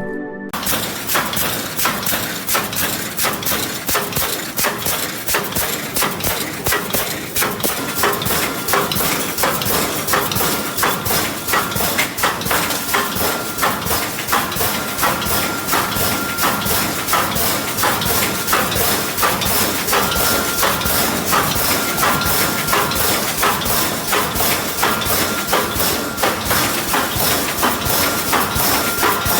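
Automatic 358 anti-climb fence mesh welding machine running, its air-cylinder-driven welding electrodes and wire feed making rapid, repeated clanks and thumps over a steady mechanical clatter. A thin high tone comes and goes through it.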